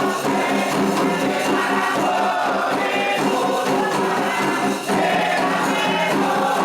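Candomblé ritual song: a group of voices singing together over steady hand percussion with a jingling, shaken edge.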